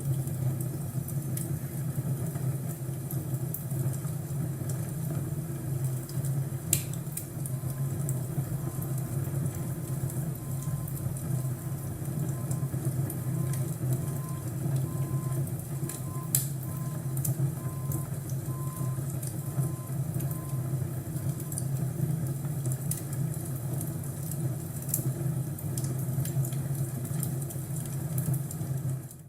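Crackling fireplace: a steady low rush of burning fire with scattered sharp pops and crackles.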